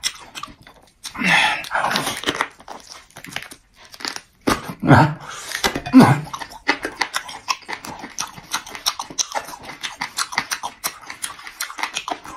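Close-up mouth sounds of a man biting, tearing and chewing a large bone-in joint of braised meat, with a few short grunting vocal sounds early on and a fast run of wet smacking chews in the second half.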